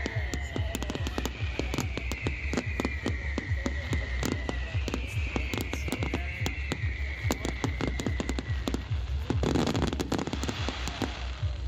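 Fireworks display: a dense run of crackling pops and bangs, with long high whistles sliding slowly downward in pitch through the first eight seconds or so.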